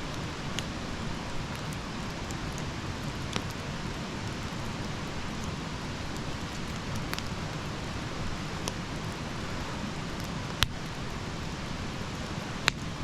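Wood campfire burning: a steady crackling hiss with a few sharp pops, the two loudest about two-thirds of the way through and near the end.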